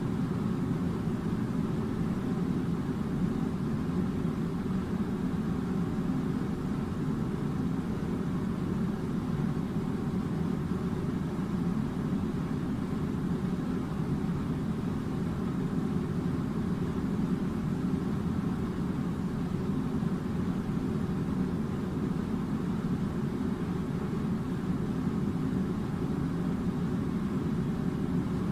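Air-conditioning unit running with a steady low rumbling drone.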